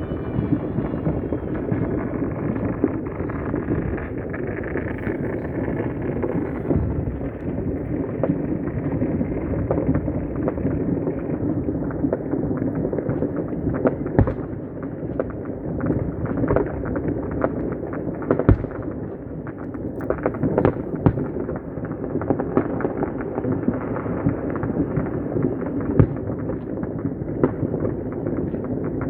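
Many fireworks and firecrackers going off at once: a dense, continuous crackle of overlapping pops and bangs, with scattered louder sharp reports standing out.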